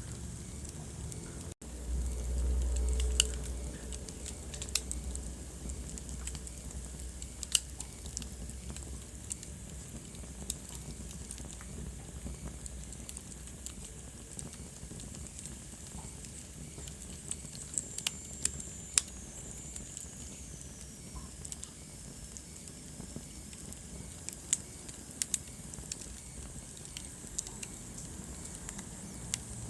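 Wood fire burning in a fireplace, crackling with sharp pops scattered irregularly over a soft steady hiss. A low rumble swells briefly a couple of seconds in, and a faint high whistle falls in pitch midway through.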